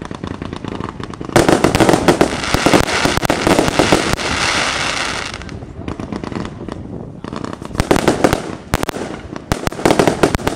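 Lesli Volt! 'Copper Gold' firework firing repeated shots: a dense run of bangs and crackling from about a second and a half in, thinning out after five seconds, then another heavy volley of bangs and crackle near the end.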